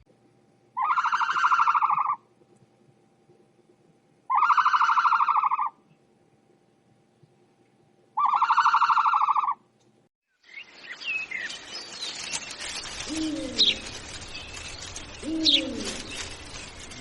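An animal giving three long, buzzy, rapidly pulsed calls about three and a half seconds apart. About ten seconds in, the sound cuts to a mix of bird chirps and short gliding calls.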